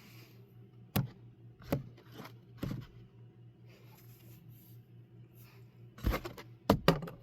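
A series of short, sharp clicks and light taps in a small room: about four spread over the first three seconds, then a quicker cluster of four near the end, over a steady low hum.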